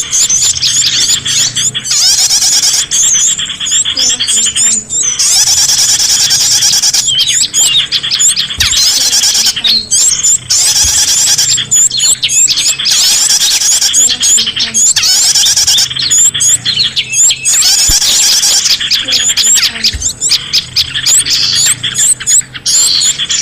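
Bird-lure recording of many small songbirds calling together: a dense, loud chatter of rapid, overlapping chirps and trills.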